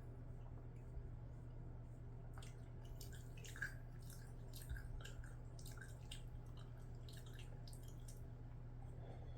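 Faint, close-miked wet chewing and mouth clicks of someone eating rice with scrambled eggs: a run of small wet clicks from about two seconds in until near the end, over a steady low hum.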